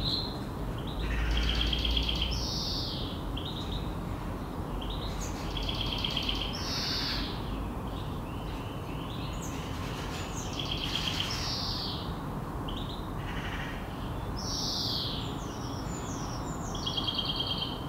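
Outdoor birdsong: a short trilled phrase and downward-slurred chirps repeating about every four to five seconds, over a steady background hiss of outdoor ambience.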